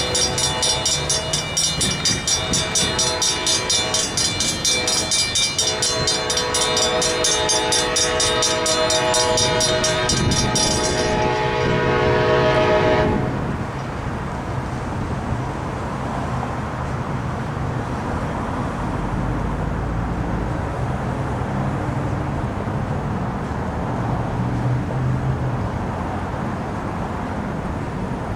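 Safetran Hybrid crossing bell ringing rapidly and evenly, sounding healthy, while an Amtrak passenger train's locomotive horn blows a long chord over it. The bell stops about 11 seconds in and the horn cuts off about two seconds later. The train then runs past with a steady rumble.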